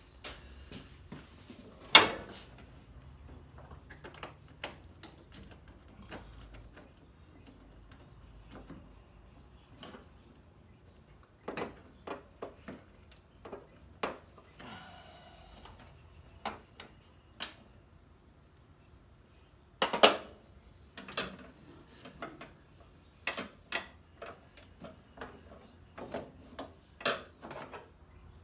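Irregular metallic clinks, taps and knocks of hand tools and parts during work in a car's engine bay, the two loudest about two seconds in and again near twenty seconds.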